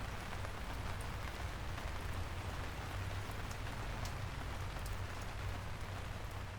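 Steady rain falling, with scattered drop ticks over an even hiss and a steady low hum underneath.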